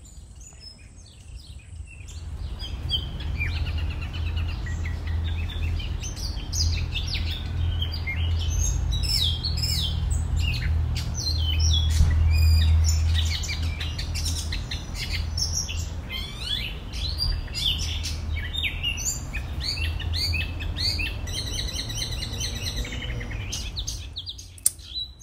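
Many small birds chirping and twittering in quick, overlapping calls over a steady low rumble. The sound fades in about two seconds in and drops away near the end.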